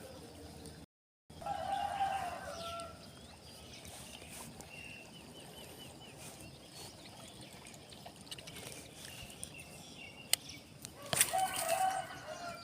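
A rooster crowing twice, once about a second in and again near the end, with small birds chirping faintly. A few sharp clicks near the end.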